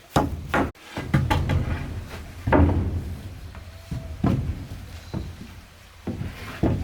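Irregular series of sharp knocks and heavy thuds, with a brief dropout a little under a second in.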